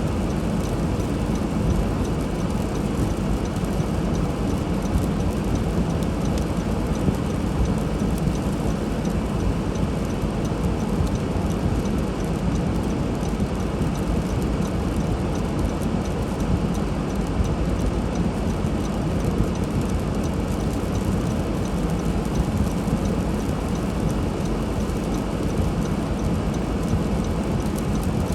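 Steady rumble and hiss of a car driving on a snowy road: engine and tyre noise.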